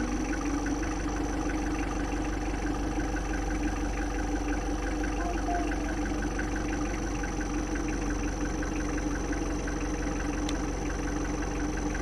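Safari vehicle's engine idling steadily while stopped.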